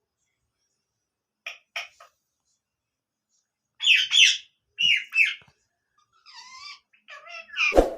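Pet parrot calling in short, shrill squawks: a few quick small calls, then two loud double calls, a wavering call and a longer one near the end. A sharp knock comes just before the end.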